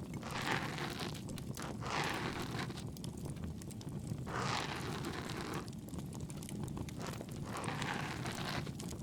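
Bonfire crackling steadily, with four soft swishing swells over it, each about a second long.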